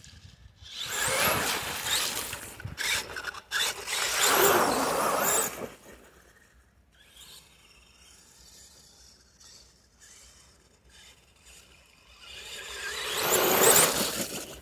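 Radio-controlled mega truck's motor and drivetrain whining as it drives. The pitch rises and falls with the throttle in two bursts, a long one early and a shorter one near the end, with a faint stretch between.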